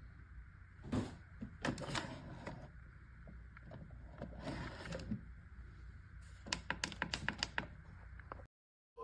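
Scattered knocks and clicks, then a quick run of about eight sharp clicks within a second, over a low steady hum; the sound cuts out abruptly just before the end.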